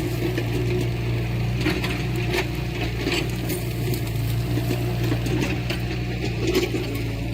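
Heavy diesel earthmoving machinery running steadily, with scattered metallic clanks and knocks over the engine.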